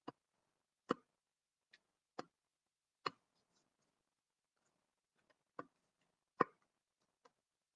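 Oracle cards being handled while one is picked from the deck: a series of sharp, irregular taps and clicks with quiet between them.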